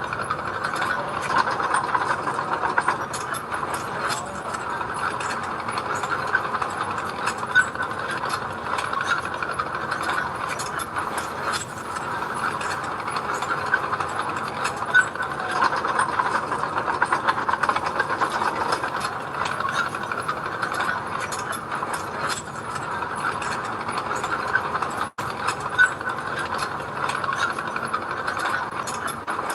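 Diesel engine of a piece of earthmoving machinery running steadily, with constant metallic clanking and rattling.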